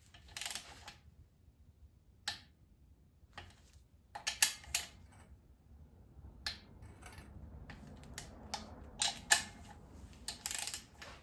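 Scattered sharp metallic clicks and short ratcheting bursts from hand tools, a torque wrench being worked on the cylinder-head nuts of an air-cooled VW Beetle engine.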